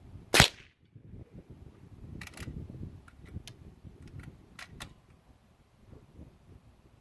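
A single sharp shot from a .22 Long Rifle firing a 40-grain round at about 1,240 feet per second, about half a second in, followed by several faint clicks a couple of seconds later.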